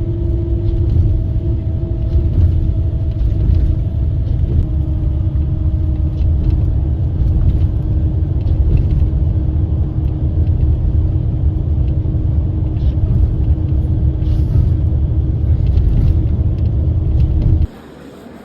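A steady low vehicle rumble with a constant hum over it, cutting off suddenly near the end.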